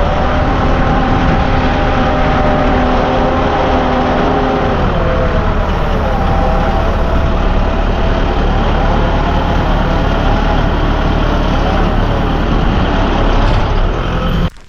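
Vehicle engine running while being driven, a steady drone with a dense rushing noise over it; its pitch shifts about five seconds in. It cuts off abruptly near the end.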